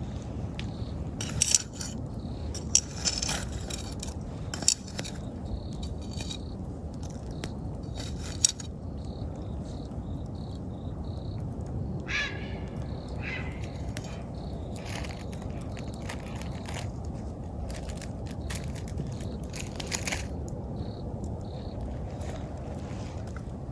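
Wood campfire crackling, with sharp pops every few seconds over a steady low rush of the burning fire. Autumn insects chirp faintly now and then in the background.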